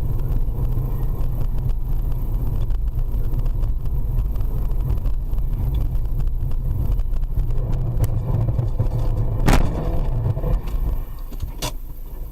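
Car driving, its road and engine noise a steady low rumble, with one sharp knock about three quarters of the way through and lighter clicks shortly before and after it.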